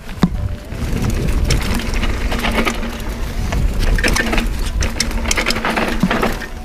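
Mountain bike ridden over a rough dirt trail: tyres crunching on loose stones, with frequent rattling clicks and a steady low rumble of wind and vibration.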